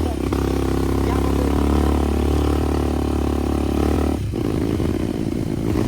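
Motorcycle engine running steadily while riding, its note turning rougher about four seconds in.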